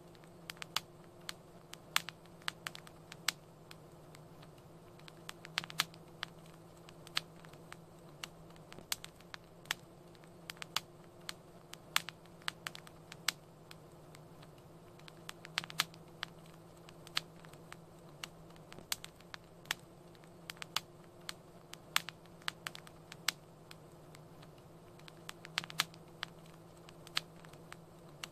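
Wood fire crackling in a fireplace: irregular sharp pops and snaps, several a second at times, over a steady low hum.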